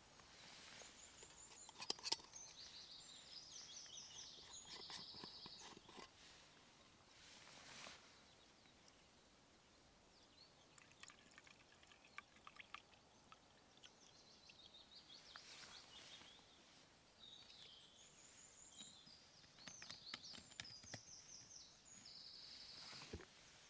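Faint birdsong: a small bird singing high, rapid trilled phrases in two spells, one near the start and one near the end. A couple of sharp clicks come about two seconds in, and light ticks are scattered through.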